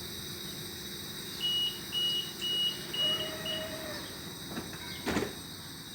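Five short high-pitched beeps, about two a second, from the stopped commuter train's door-closing warning, signalling imminent departure; a lower steady tone sounds under the last beeps, and a short thump follows near the end.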